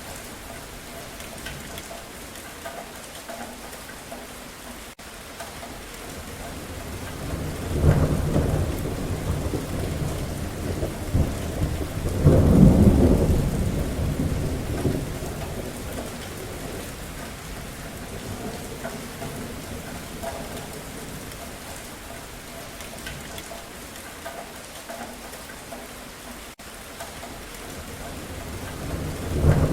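Steady rain falling, with rolling thunder: a rumble swells about 8 seconds in, a louder, longer one follows a few seconds later, and another begins right at the end.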